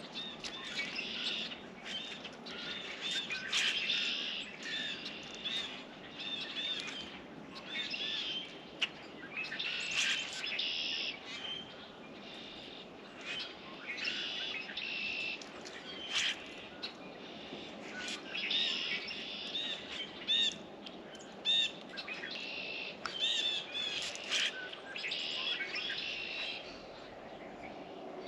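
Small songbirds chirping and calling over and over, with a few sharp clicks among the calls and a steady low hiss underneath.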